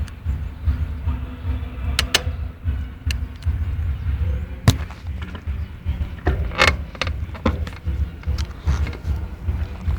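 Scattered sharp clicks and cracks from a GT Avalanche mountain bike as it is handled and loaded, over a low rumble. These are the crackle the owner is trying to trace, an unexplained noise in a bike only about a month old. There are two quick clicks about two seconds in, a loud single crack near the middle, and a cluster of clicks a little later.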